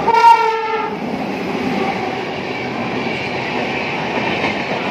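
A train horn blows once for about a second, the loudest sound here, as an express with LHB coaches runs through the station at speed. After it comes the steady noise of the coaches rolling past on the rails.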